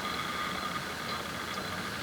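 Ford Bronco engine idling, heard from inside the cab as a steady low noise. A thin, steady high-pitched tone fades out about a second in.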